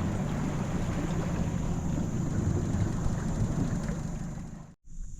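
Boat running on the water, a low rumble with wind buffeting the microphone, cutting off suddenly near the end.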